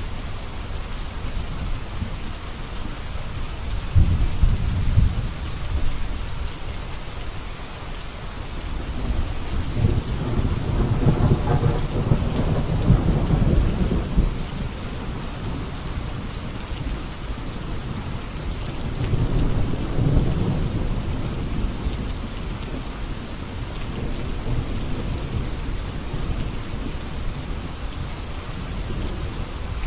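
Steady rain falling, with thunder rumbling low three times: briefly about four seconds in, longest and strongest from about ten to fourteen seconds, and again near twenty seconds.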